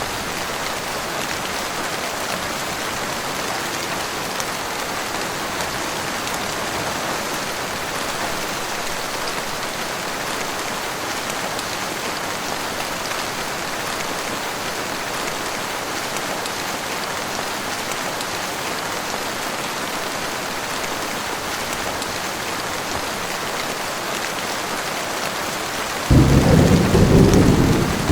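Heavy rain falling steadily. About two seconds before the end, a loud low rumble of thunder breaks in suddenly over the rain.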